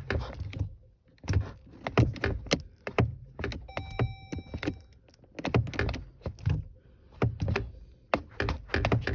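Irregular runs of knocks and thuds in a van's cab as the pedal is pumped on a van that won't start, with a brief electronic chime about four seconds in.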